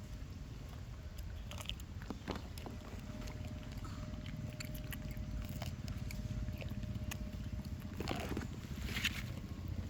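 Macaque chewing and biting fruit: scattered small crunches and clicks over a low rumble, with a louder crunchy patch near the end.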